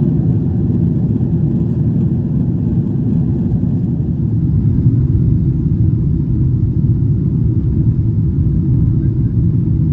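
Steady low rumble of a Boeing 777-300ER heard from inside the passenger cabin, with an even level throughout.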